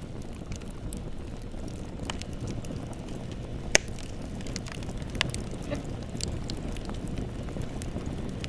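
Bonfire burning and crackling: a steady low rumble of flames with scattered sharp pops of burning wood, the loudest a little under four seconds in.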